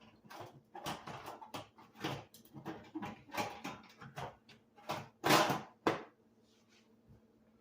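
Irregular clicks, knocks and short scrapes as a part is worked loose and taken out of a dishwasher door by hand, with a longer, louder scrape about five seconds in.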